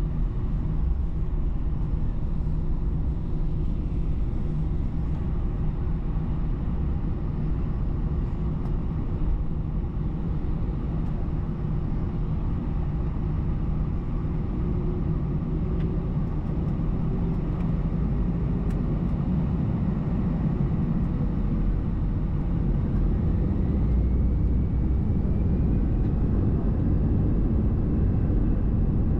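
Airbus A320-214's CFM56 jet engines running, heard from inside the passenger cabin as a steady rumble. A faint tone rises slowly in pitch past the middle, and the sound grows a little louder toward the end.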